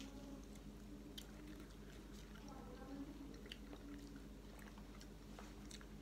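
A person chewing food, with faint scattered wet clicks and smacks over a steady low hum.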